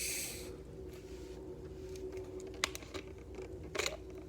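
The fizz of a freshly opened Mountain Dew Baja Mango Jam soda dies away in the first half second. A few sharp clicks and clunks follow as the container is handled, over a faint steady hum.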